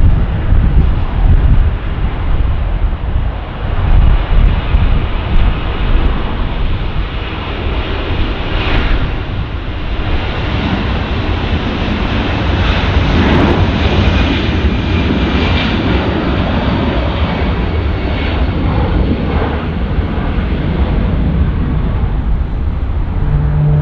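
Jet airliner's engines at takeoff power on the departure roll: a loud, steady roar and rumble with a thin high whine over it.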